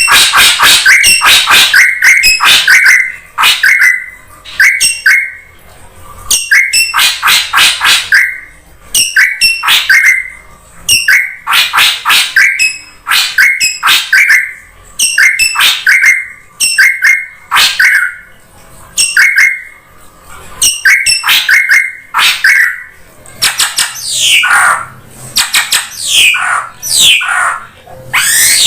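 Drongo calls played as a bird-lure recording: loud repeated phrases of rapid harsh chattering, each ending in a short clear note, about once a second. In the last few seconds the phrases turn into falling whistled sweeps.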